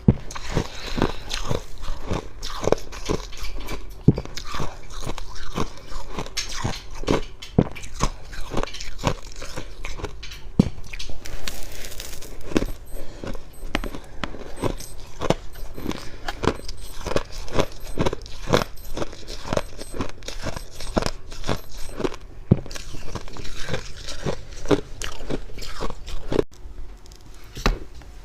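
Close-miked crunching and chewing of dry, fluffy freezer frost, many crisp crunches in quick, uneven succession. The crunches thin out near the end.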